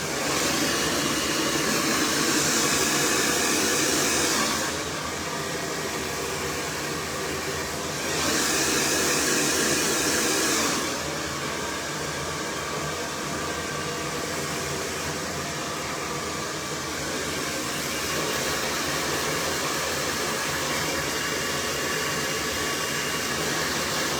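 Cloud 9 hair dryer running continuously, blowing air through the hair, growing louder twice for a few seconds.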